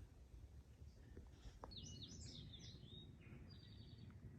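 Faint songbird singing: a quick phrase of high chirping notes about two seconds in, then a short run of repeated notes near the end, over a low steady rumble.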